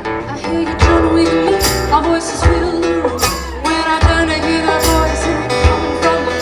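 Live band music: a voice singing over guitar and a bass line, with a steady beat of drum and cymbal hits.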